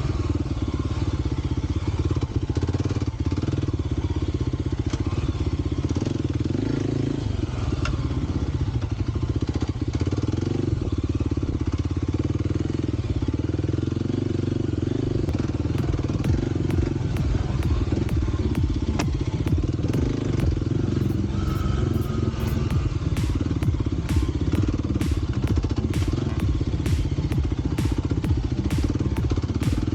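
Kawasaki KLX 300's single-cylinder four-stroke engine running steadily under a rider, with a run of sharp clicks and ticks through the second half.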